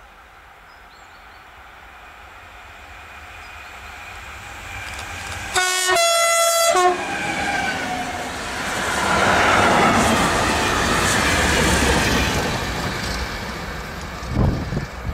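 Freight train approaching and passing at speed, its locomotive sounding a two-note horn about five and a half seconds in, a short lower note then a longer higher one. The rumble and clatter of the wagons rise to a peak and then fade, with a couple of low thumps near the end.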